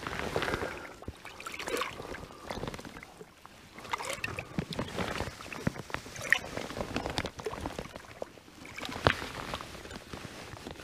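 Water splashing and gurgling irregularly as a soft water carrier is filled by hand.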